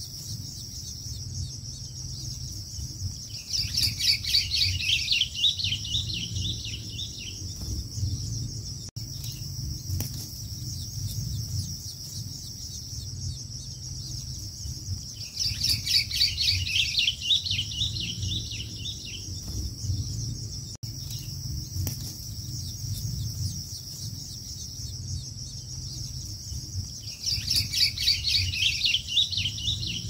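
Bird calls: three bursts of rapid, chattering notes about twelve seconds apart, over a steady high-pitched insect drone and a low rumble.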